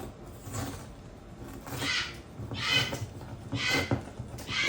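A parrot giving four short, harsh, raspy squawks spread over a few seconds.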